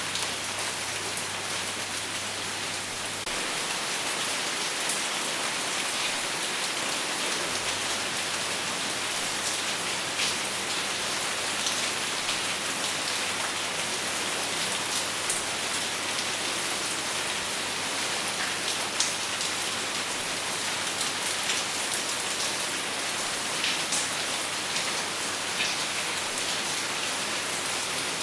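Steady rain falling on a surface, a dense even patter with scattered louder individual drops, and no thunder.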